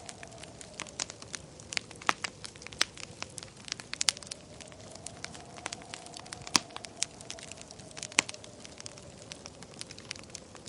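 Wood fire crackling: irregular sharp pops and snaps, a few much louder than the rest, over a low steady hiss.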